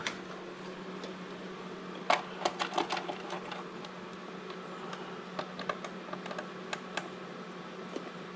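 Scattered light clicks and taps of hand tools and metal parts being handled, with a quick run of them about two seconds in, over a steady low hum.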